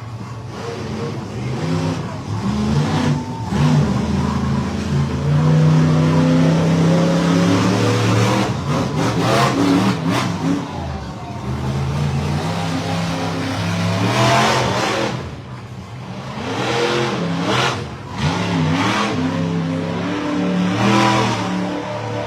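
Monster truck engine revving hard, the throttle rising and dropping again and again.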